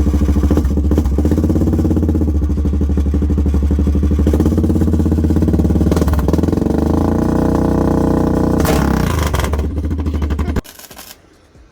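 Suzuki King Quad ATV's single-cylinder engine running through a universal aftermarket exhaust in place of the stock pipe, with a loud, deep note. It cuts off suddenly about ten and a half seconds in.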